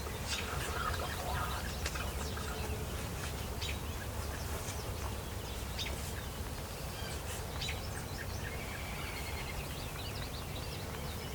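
Songbirds chirping and calling, many short scattered chirps, over a steady low rumble of background noise.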